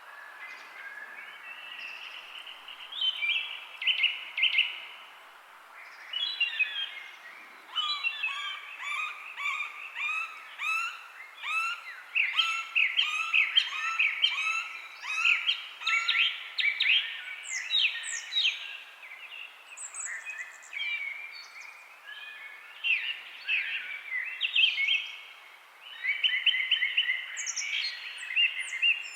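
Songbirds singing, a dense run of short, quickly repeated chirps and trills at several pitches, over a steady background hiss.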